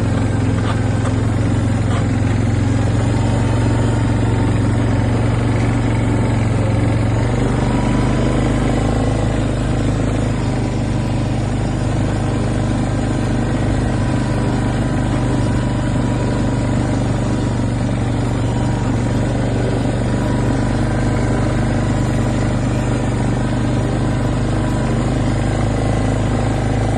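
A vehicle engine running steadily with a low, even hum; its tone shifts slightly about seven seconds in.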